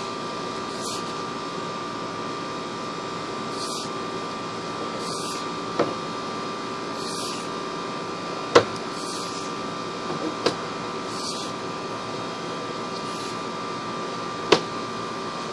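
Steady electrical hum with a few fixed tones from the sewer inspection camera rig, broken by four sharp clicks or knocks as the camera is pushed along the pipe.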